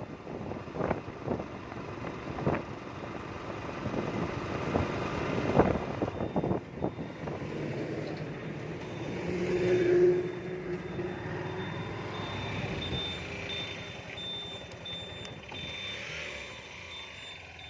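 Road traffic noise with sharp knocks in the first few seconds and a high, steady, repeating electronic beeping from about six seconds in.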